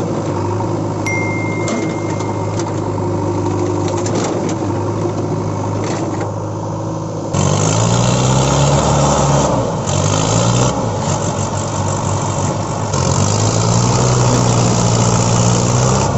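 Engine running steadily, then louder from about seven seconds in, revving with its pitch rising and falling.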